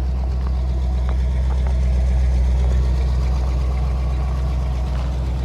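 Gasoline engine of a 1995 Ford F-250 pickup idling steadily.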